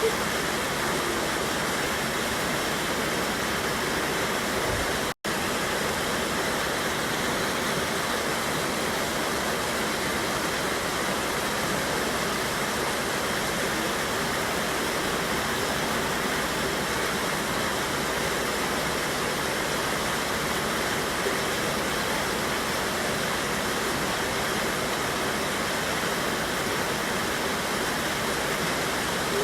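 Waterfall on a mountain river, the water rushing steadily. The sound drops out for an instant about five seconds in.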